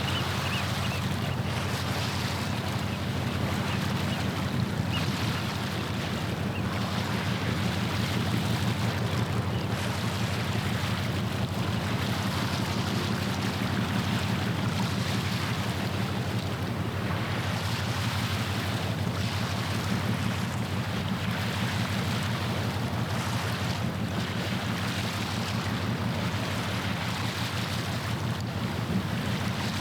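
Steady low drone of a passing ship's diesel engine, with water washing against the shore and wind on the microphone swelling and fading over it.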